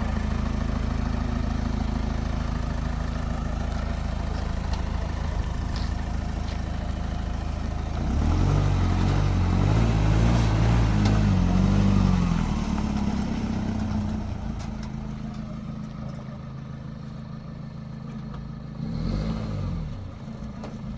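Vehicle engine running steadily, then louder with its pitch rising and falling for a few seconds as it revs, before dropping back to a lower steady run. There is a brief rise and fall again near the end.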